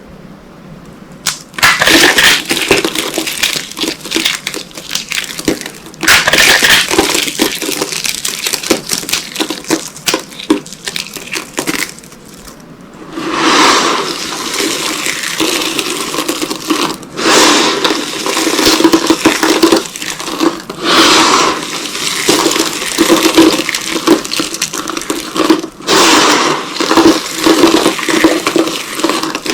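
Dry soap boxes dusted with corn starch being crushed: dense crunching and crackling that starts about a second and a half in, eases off briefly around twelve seconds in, then comes back as a run of repeated crunching squeezes.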